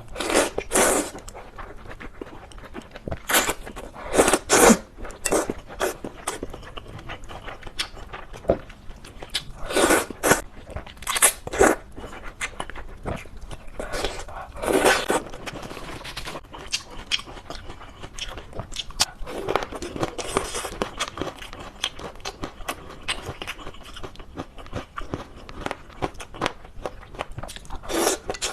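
Close-miked eating of chicken noodles: chewing and biting, with irregular loud bursts of mouth noise between quieter stretches.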